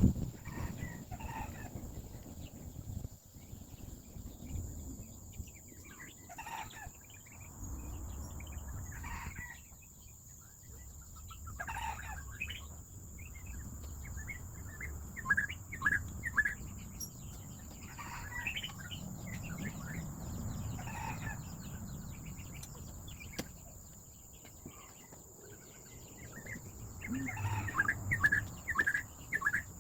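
Chickens clucking in short repeated bursts over a low steady hum.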